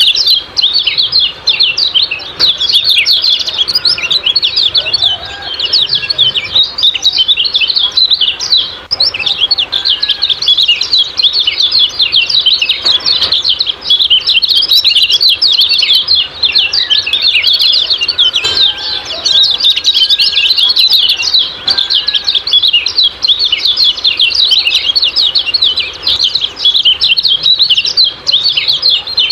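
Kecial kuning white-eyes chirping a dense, continuous stream of rapid, high 'ciak-ciak' calls with no pauses.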